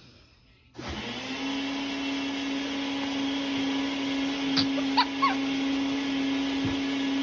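A small electric motor starts up about a second in, its pitch rising quickly to a steady hum, and then runs evenly. A few brief high squeaks sound over it about halfway through.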